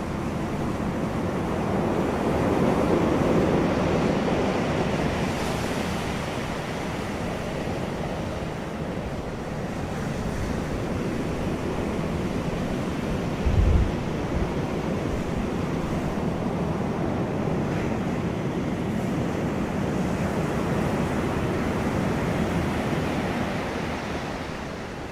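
Wind blowing steadily outdoors, swelling and easing, with a short low buffet of wind on the microphone about halfway through.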